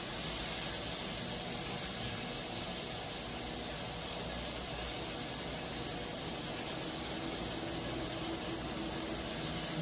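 Flour-coated tofu cubes frying in hot olive oil in a wok: a steady, even sizzle without spattering.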